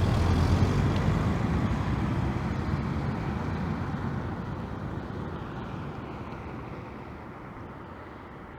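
Car driving off and fading away, its engine and tyre noise dying down steadily into the distance.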